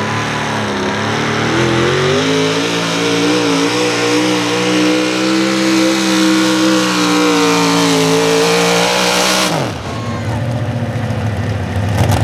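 Modified 4x4 pulling truck's 650-cubic-inch naturally aspirated engine at full throttle pulling the sled. Its pitch steps up about two seconds in and holds high, then drops sharply near the end as the throttle is let off and the run ends.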